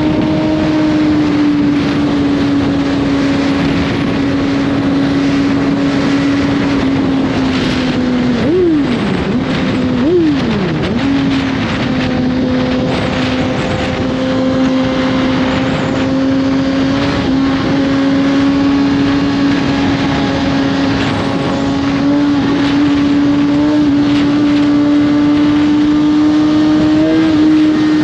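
2021 Suzuki GSX-R1000 inline-four running through an Austin Racing slip-on exhaust while riding at a steady cruise. About eight and ten seconds in, the engine note twice jumps up sharply and falls away, as with quick throttle blips or gear changes.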